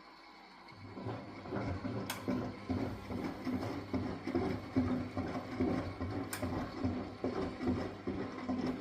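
Miele W423 washing machine starting to run about a second in, with a low, uneven pulsing. Two sharp clicks come about four seconds apart.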